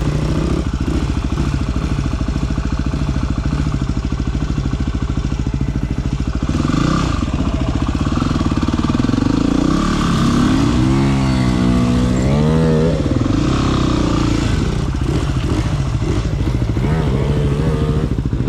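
Single-cylinder dirt bike engine running steadily while riding, with the throttle opened and closed so the revs climb and drop several times about ten to thirteen seconds in.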